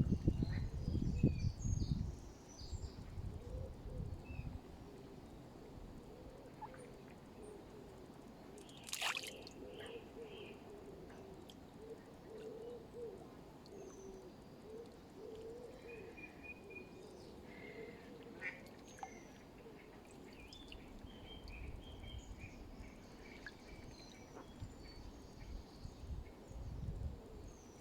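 Mallards calling with soft, low quacks and chatter, with small birds chirping high above. A low rumble sounds in the first two seconds, and a single sharp click comes about nine seconds in.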